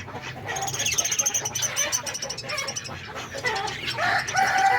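Pet budgerigars chattering and warbling in quick, high chirps and clicks, with a long, slowly falling call near the end.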